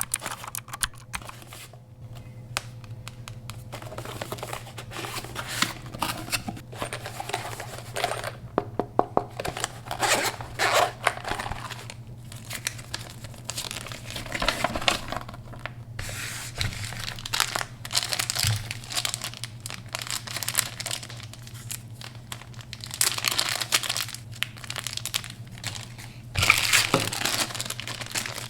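Packaging being handled and opened: plastic and paper crinkling and tearing in irregular spells with many small crackles, over a steady low hum.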